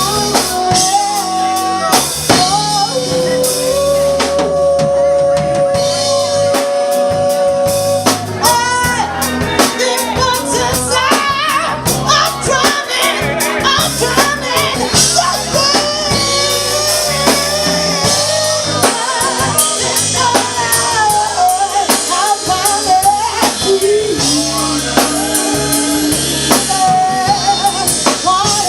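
Live band music with a singer, a drum kit keeping a steady beat and a bass line underneath.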